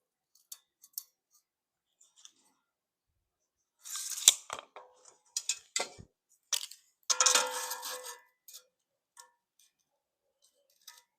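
Scattered clicks, taps and scrapes of measuring and marking tools handled on a steel plate, with a louder clatter about four seconds in and a longer scrape about seven seconds in.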